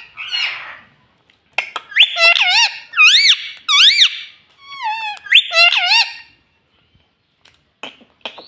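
Indian ringneck parrot calling: a string of loud, high squawks that slide up and down in pitch, for about four seconds, after a short hissy burst. A few faint clicks near the end.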